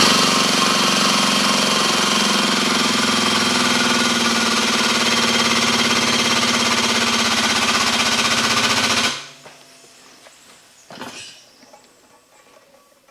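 Hydraulic hose crimper's pump running steadily with a fast rapid pulsing for about nine seconds as it presses the dies down on a hose fitting, building pressure toward 2000 psi, then cutting off suddenly. A single metal clank follows near the end.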